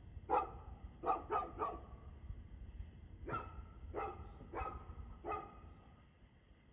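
A dog barking eight times: one bark, then three in quick succession, a pause of over a second, then four more evenly spaced barks.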